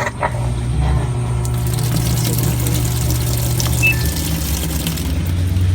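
Samsung automatic washing machine starting its cycle after the start button is pressed: a click, then water running into the tub with a steady low hum.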